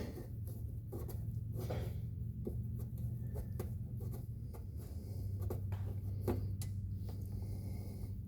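Faint, irregular clicks and light knocks of hand tools working at the front differential plug of a side-by-side, over a steady low hum.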